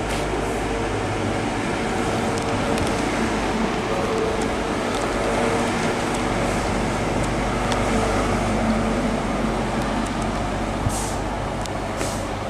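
Train running: a steady rumble with faint humming tones, and two short sharp clicks near the end.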